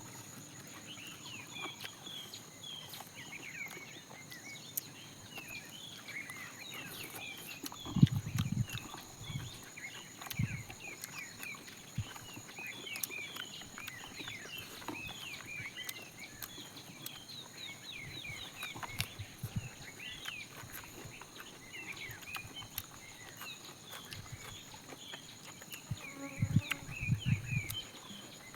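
Outdoor ambience of many short, high chirps repeating throughout, with a few low thumps about eight seconds in and again near the end.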